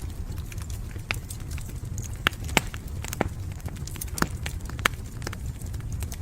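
Wood fire crackling and popping over a steady low rumble, with a few louder pops in the middle.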